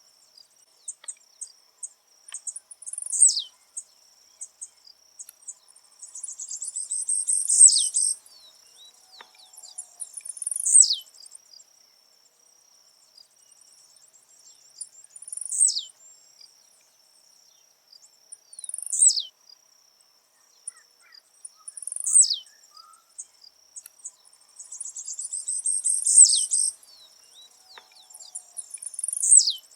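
Blue-black grassquit (tiziu) singing its short song over and over, each note a sharp downward sweep, about every three to four seconds, some notes led in by a run of fast ticks. A steady high insect whine runs underneath.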